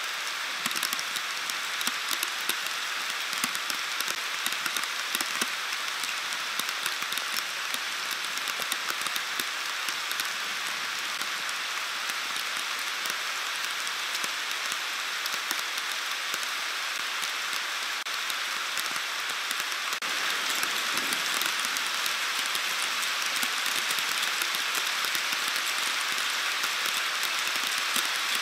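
Heavy rain pouring steadily in a thunderstorm, with many sharp ticks of drops striking close by. It grows a little louder about twenty seconds in.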